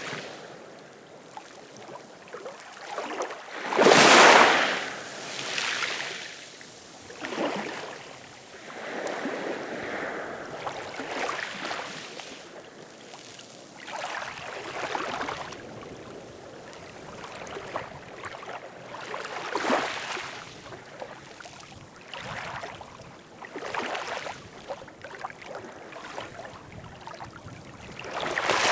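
Small ocean waves splashing and washing in, in irregular surges that swell and fade every few seconds; the biggest splash comes about four seconds in.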